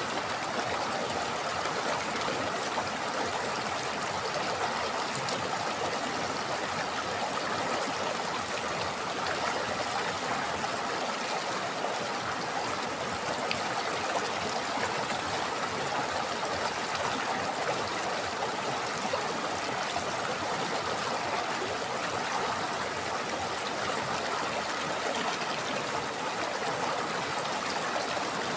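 A river or stream running steadily over rocks, a continuous rush and gurgle of flowing water.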